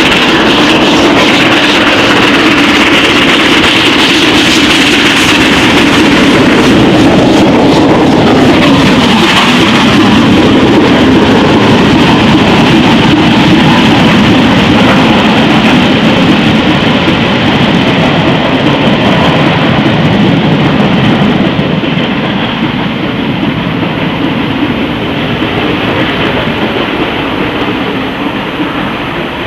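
LMS Royal Scot class 4-6-0 steam locomotive 46115 Scots Guardsman, a three-cylinder engine, working hard up the 1 in 75 of Shap bank with a loud, steady exhaust as it passes. In the last third the sound eases and fades as the locomotive draws away and the train rolls by.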